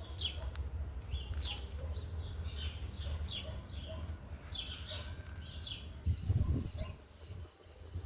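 Small birds chirping, a string of short, quickly falling notes, over a low steady rumble. About six seconds in there is a brief, louder low burst, then the chirping stops.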